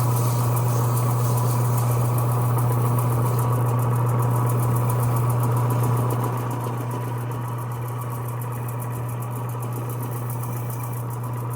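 Electric power sander running steadily with a low hum, sanding old paint off a wooden handle; it gets a little quieter about six seconds in.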